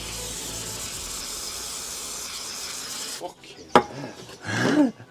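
A steady spraying hiss that cuts off after about three seconds, followed by a single sharp clack and then a loud shouted exclamation.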